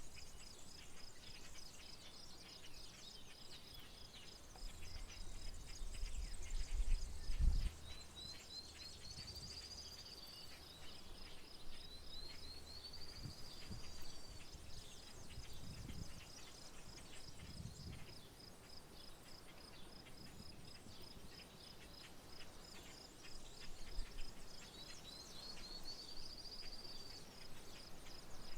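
Rural outdoor ambience of insects chirping in a steady, even pulse, with a bird calling three times in a rising-then-falling whistle. A low rumble swells and fades about five to eight seconds in.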